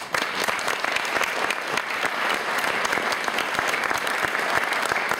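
An audience clapping steadily after a short flute piece: a dense patter of many hands.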